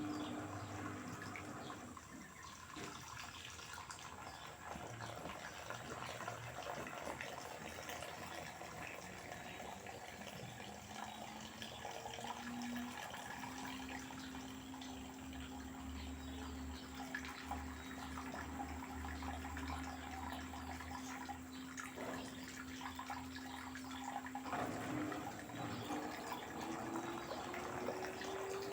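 LG direct-drive washing machine mid-wash on a hot cotton programme: water sloshing in the turning drum with a steady motor whine, which rises in pitch near the end as the drum speeds up.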